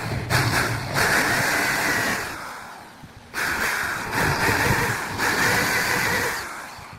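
Electric woodworking power tool running in short stretches, its motor noise starting and stopping abruptly several times.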